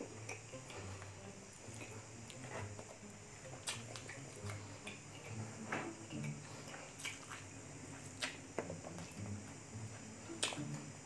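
Wet chewing and lip-smacking of a person eating braised pork leg and rice by hand, with scattered sharp mouth clicks.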